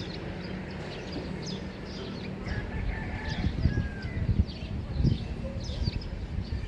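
Morning neighbourhood birdsong: many small birds chirping throughout, with a rooster crowing in the distance about halfway through. Low rumbling noise swells in the second half.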